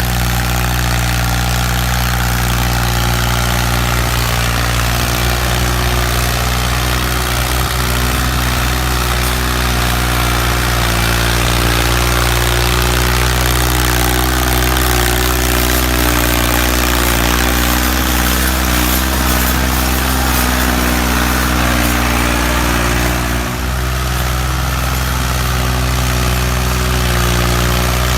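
Ford farm tractor's three-cylinder diesel engine running steadily at a constant speed, with a brief dip in level near the end.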